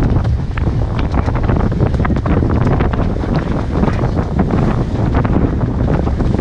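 Strong wind buffeting the microphone aboard a sailboat under way, with water rushing and splashing against the hull.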